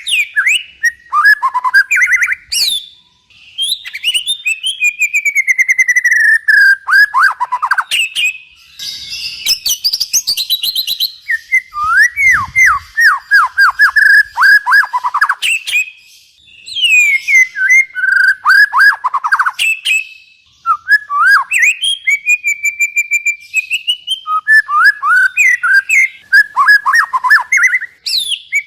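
Songbird song of the kind used as masteran training audio for cage birds: runs of quick, repeated downward-sweeping whistled notes broken by short pauses, with a higher scratchy chatter a little under halfway through.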